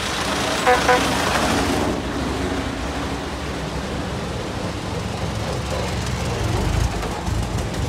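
Veteran cars' engines running as the cars drive past close by, with a low rumble that swells near the end as one passes close. About a second in, two short horn honks.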